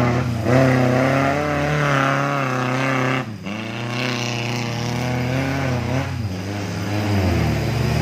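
Off-road 4x4's engine revving hard under load as it climbs a steep slope. Its pitch rises and falls with the throttle, easing off briefly about three seconds in and again about six seconds in.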